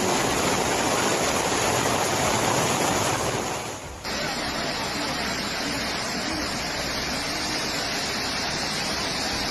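Rushing floodwater: a steady, dense rush of noise that dips about four seconds in and resumes slightly quieter.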